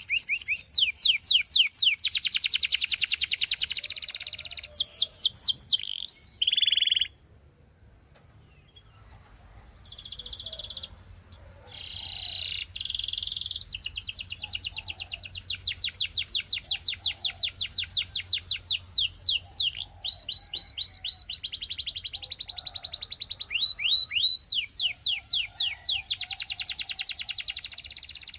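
Canary singing in long, fast trills of rapidly repeated high notes. It breaks off briefly about seven seconds in, picks up again with a few short phrases, then goes back to steady rolling trills.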